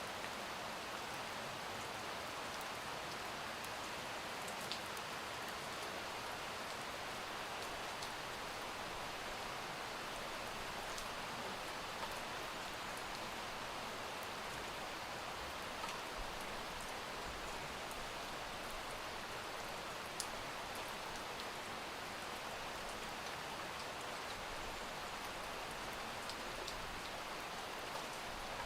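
Steady rain falling, an even hiss with a few scattered sharper drips.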